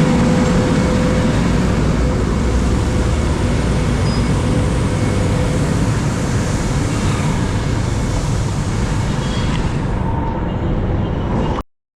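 Truck-mounted road sweeper working amid road traffic: a steady, loud engine rumble with a hiss, cutting off suddenly near the end.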